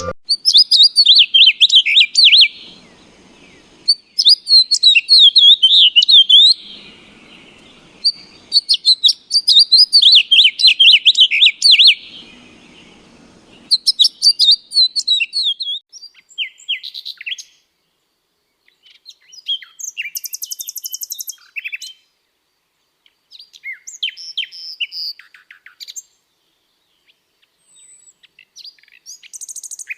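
Birds chirping in loud bursts of rapid, chattering calls, each burst lasting a couple of seconds. About halfway through they give way to fainter, scattered chirps.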